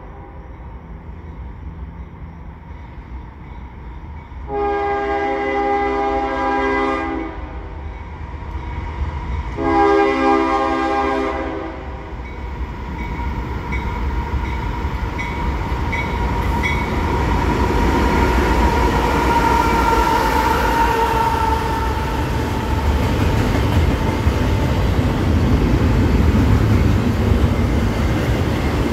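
CSX freight locomotive horn sounding two long blasts a few seconds apart, over the low rumble of the approaching diesel train. The rumble grows steadily louder as the locomotives and the double-stack intermodal container cars roll past.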